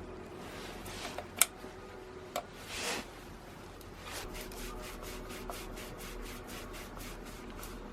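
Hand work during a brush cutter overhaul: a sharp click, then an even run of short rubbing strokes, about four to five a second.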